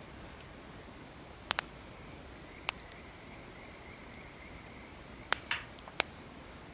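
Wood fire crackling: sharp pops over a steady soft hiss, two in quick succession about a second and a half in, one a second later, and a few more near the end.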